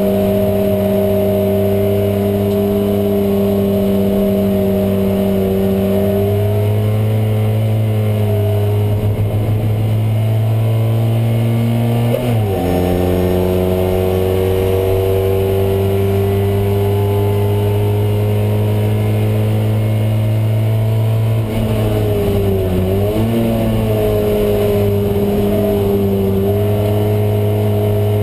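Polski Fiat 126p race car's air-cooled two-cylinder engine running hard under load, heard from inside the stripped cabin. Its pitch holds fairly steady, dips sharply and recovers about twelve seconds in, and dips and rises again around twenty-two seconds.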